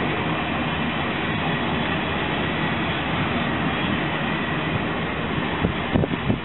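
Railroad coaches of a circus train rolling past, a steady rumble of steel wheels on rail, with a few low thumps near the end.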